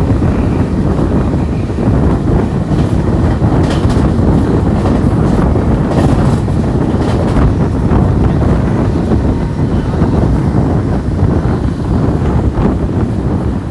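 Running noise of a moving passenger train heard from aboard: the Garib Rath Express coaches' wheels rumbling on the rails, loud and steady, with wind rushing past and a run of sharp clicks over rail joints in the middle.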